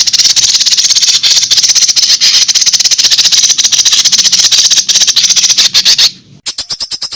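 Recorded songbird chatter: a long, loud run of rapid rattling, clicking notes, high-pitched. After a brief break about six seconds in, an evenly spaced series of quick notes starts.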